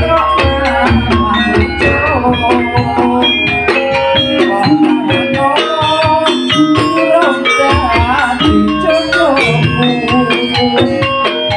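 Live band music with a busy, steady beat and a melody line.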